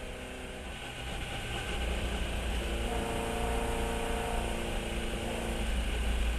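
Fiat 132 race car's engine running, getting gradually louder, with a steadier engine note coming in about three seconds in.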